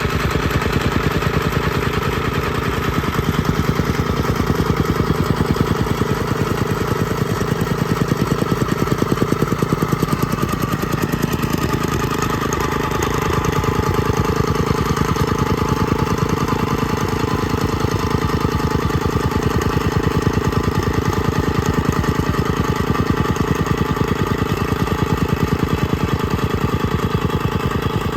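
Compactor engine running steadily with a fast, even pulse and no change in speed.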